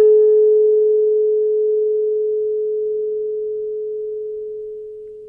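An A 440 Hz tuning fork ringing a pure steady tone after being struck, slowly fading, with faint higher overtones dying away in the first couple of seconds. It is driving an identical fork into sympathetic resonance.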